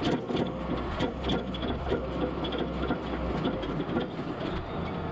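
Farm tractor running while towing a tillage disc, the implement's metal frame and gangs rattling and clattering steadily with many small irregular knocks over the engine's low hum.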